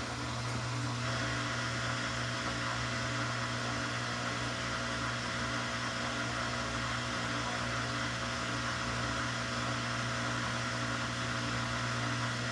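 Samsung washing machine in its final spin, the drum turning at a steady speed: a constant low hum with an even hiss over it.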